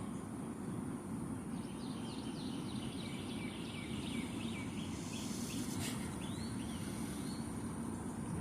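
A run of short, quick bird chirps, several a second, for about five seconds, over steady low outdoor background noise.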